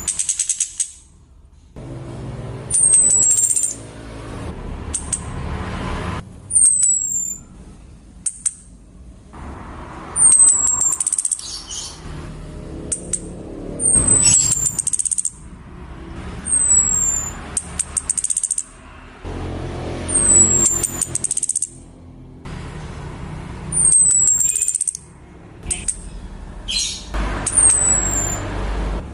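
Female chestnut-capped thrush (anis kembang) giving a high, thin, downward-sliding call about every three and a half seconds, each call followed by a short buzzy hiss. It is a lure call meant to draw a male thrush into song.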